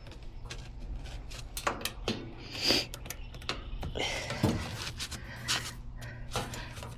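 Metal tools and fittings being handled: scattered clicks, taps and clinks, with a short louder rustle about a third of the way in and a brief hiss a little past the middle, over a steady low hum.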